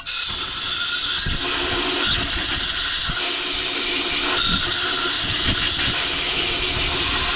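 Aerosol parts cleaner spraying in one long, steady hiss, flushing a differential pin and its threaded hole clean before thread locker goes on. It starts abruptly and cuts off near the end.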